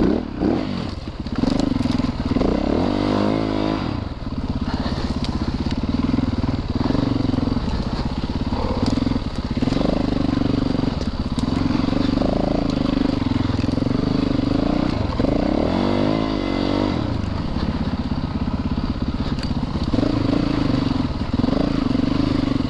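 Four-stroke single-cylinder dirt bike engine working on a trail ride, the throttle opening and closing again and again. The revs rise sharply about three seconds in and again about fifteen seconds in.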